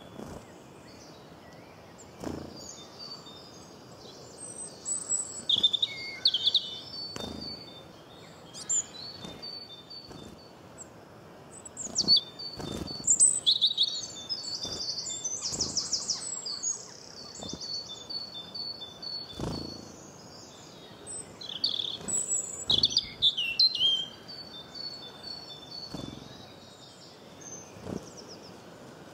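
Small birds chirping and twittering: runs of short, high calls and quick trills in clusters with short pauses between them. A soft low thud comes every few seconds.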